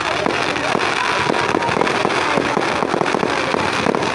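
Fireworks going off in a continuous, dense crackle of rapid pops and bangs.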